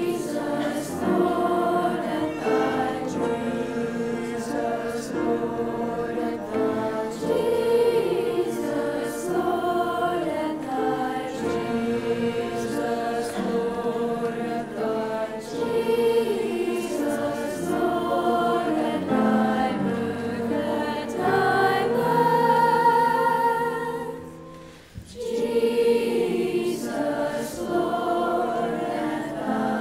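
Middle school chorus singing a held, multi-part choral piece, with a brief break between phrases about 25 seconds in.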